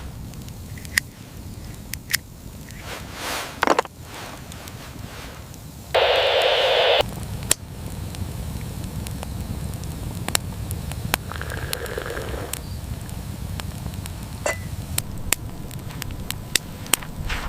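Campfire crackling, with scattered sharp pops over a low steady rumble. About six seconds in, a loud hiss lasts about a second and cuts off sharply.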